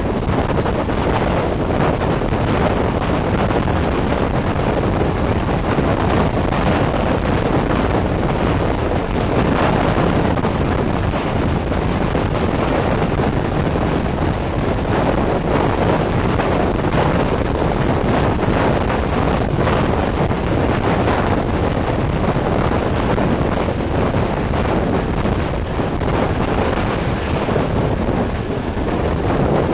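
Steam-hauled passenger train running at speed, heard from an open coach window: a steady rumble of the train under heavy wind buffeting on the microphone.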